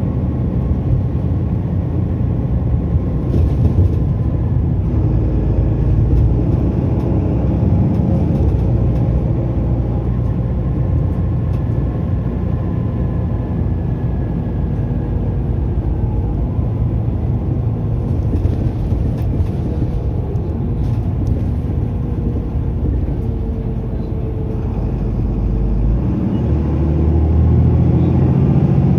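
Mitsubishi Fuso Aero Star city bus heard from inside the cabin while under way: a steady diesel engine drone and road noise. Near the end the engine note changes and grows louder as the bus pulls away hard.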